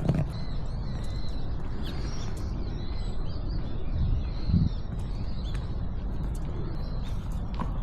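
Small birds chirping faintly in short calls over a steady low rumble, with a dull low thump about halfway through.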